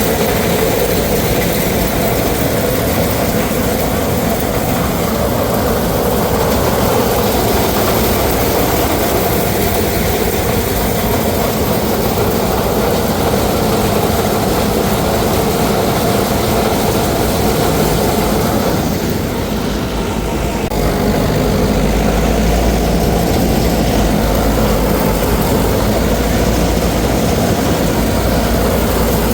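Heavy farm machinery engine running steadily. About twenty seconds in the sound dips briefly, then comes back with a deeper low rumble.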